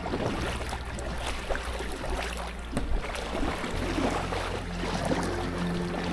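Paddle strokes and water splashing and dripping around an inflatable packraft on a small river: an irregular patter of small splashes and drips over a steady wash of water.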